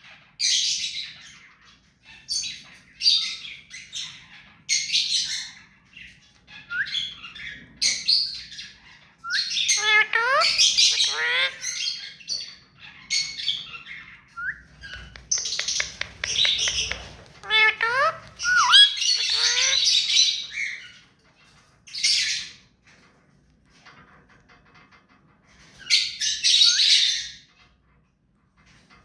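Pet ringneck parakeet calling in a run of short, harsh squawks and screeches, with some longer gliding, warbling notes near the middle. It pauses briefly near the end, then gives another burst of squawks.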